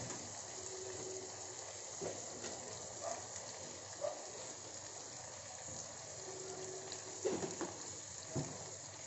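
Sliced onions, tomatoes and green chillies sizzling steadily in hot oil in a kadai as they sauté down with salt, with a few light knocks.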